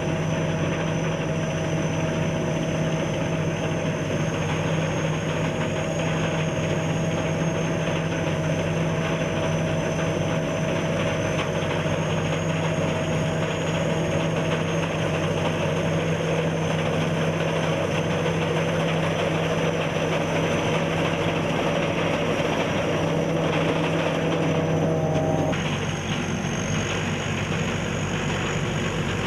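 SS-200 A rice combine harvester running steadily, its engine hum mixed with a high whine from the machinery. About 25 seconds in, the pitch of its tones shifts a little.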